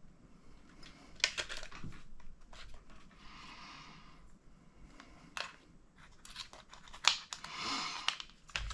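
Hands working small plastic and metal parts of a 1/10 RC truck kit with hand tools: scattered sharp clicks and two short scraping rasps, one in the middle and one near the end.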